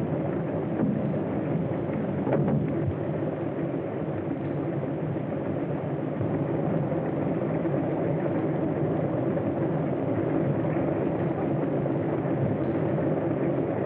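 Steady engine drone with no change in speed, heard on an early-1930s optical film soundtrack with its narrow, hissy sound.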